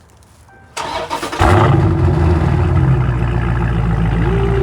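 Straight-piped 2020 Dodge Charger Scat Pack's 6.4-litre HEMI V8 being started warm. The starter cranks briefly, the engine catches with a loud flare about a second and a half in, then settles into a loud, steady idle.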